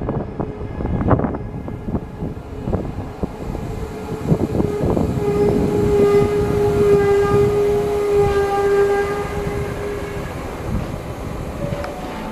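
Passenger train rolling slowly through a station, heard from on board: the wheels knock over rail joints and points, then a steady squeal holds for about five seconds midway before fading.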